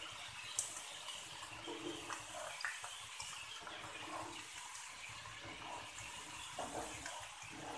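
Chicken cooking in a wok: a steady, quiet sizzling hiss, with a few faint clicks.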